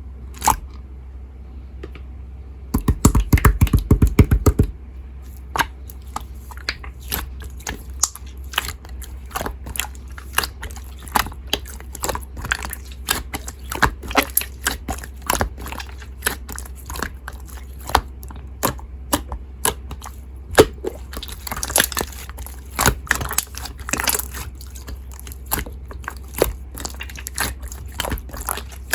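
Slime being squished and pressed by hand, giving irregular crisp clicks and pops, with a dense run of loud clicks about three seconds in.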